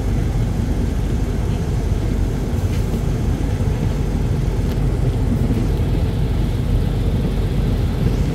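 Steady low rumble of a passenger train running as it leaves the station.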